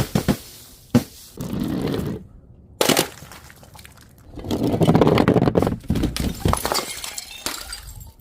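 Glass bottles and jars smashing: a few sharp cracks at the start, a brief cut to silence near the middle, then a longer crash with shards rattling and scattering from about four seconds in.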